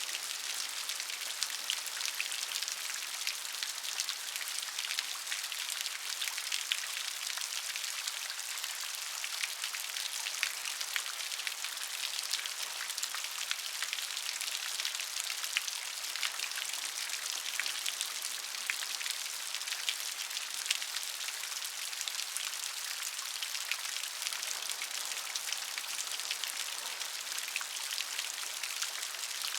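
Steady rain falling on a surface, a dense patter of many small drops that holds an even level throughout.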